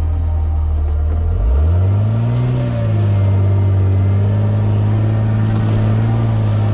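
A four-wheel-drive vehicle's engine running under throttle. Its steady drone rises in pitch about a second and a half in, peaks briefly, then settles and holds at the higher engine speed.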